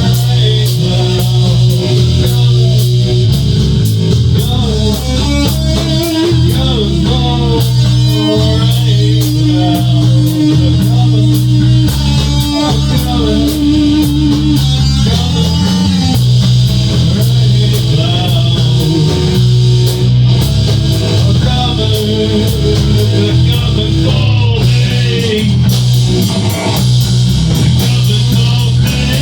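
Rock band playing an instrumental passage: electric guitar carrying a bending melodic lead over bass guitar and a drum kit with steady cymbal hits.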